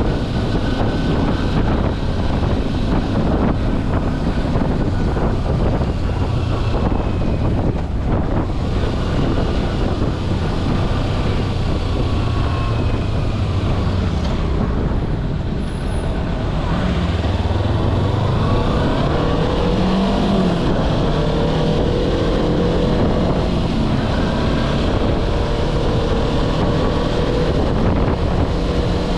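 Kawasaki Versys-X 250's parallel-twin engine running while riding. It eases off briefly about halfway through, then its pitch climbs as the bike accelerates.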